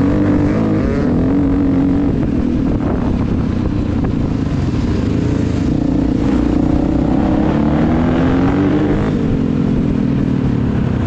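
Dirt bike engine running under changing throttle, its pitch rising and falling, with a rising rev about three quarters of the way in. Heavy wind rumble on the microphone from riding.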